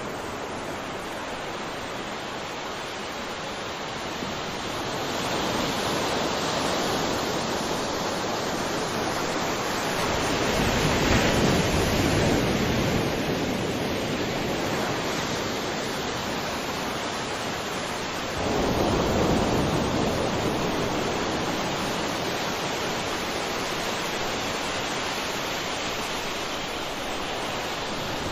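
Sea waves breaking and washing onto the shore: a steady hiss of surf that swells louder three times, the strongest about eleven seconds in and another rising sharply a little before twenty seconds.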